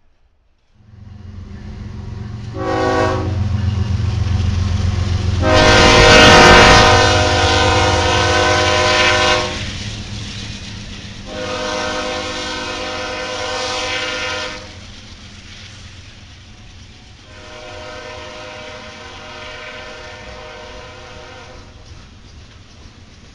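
Freight train led by Kansas City Southern diesel locomotives passing close by, the engines rumbling while the locomotive horn sounds four times: a short toot, then three long blasts, the first of these the loudest and the last fainter. Steady wheel-on-rail noise continues as the hopper cars follow.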